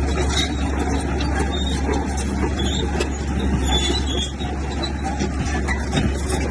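Diesel earthmoving machinery running steadily under load, a deep even engine drone with scattered short high squeaks.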